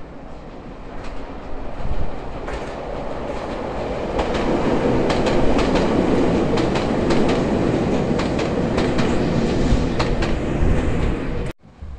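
Shintetsu electric train running close by, its wheels clicking over the rail joints, growing louder over the first few seconds and then staying loud. The sound cuts off abruptly near the end.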